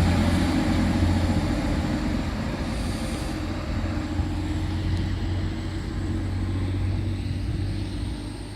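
Steady low hum and rumble of a train, with a faint high-pitched whine over it.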